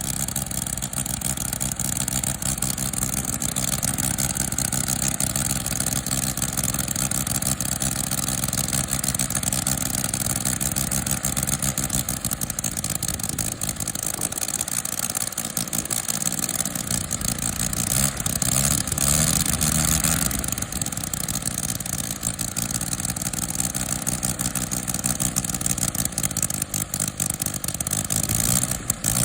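UML-160 five-cylinder model rotary engine, running on methanol with glow plugs, turning a 32x14 propeller at a steady run. A little past the middle the engine speed drops and picks up again with throttle changes, then settles.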